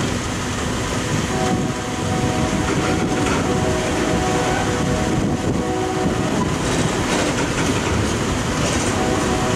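Coal train cars rolling past at steady speed: a continuous heavy wheel rumble and clatter over the rails, with a faint ringing tone coming and going over it.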